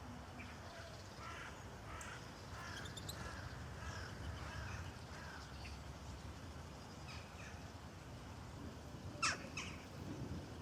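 Birds calling outdoors: a run of short calls in the first half, then a sharp, louder call followed by a second near the end, over a low, steady background rumble.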